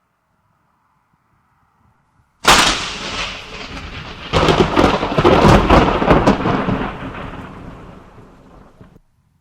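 A close thunderclap: silence, then a sudden sharp crack about two and a half seconds in, followed by a heavier crackling rumble that peaks a couple of seconds later and dies away before cutting off abruptly near the end.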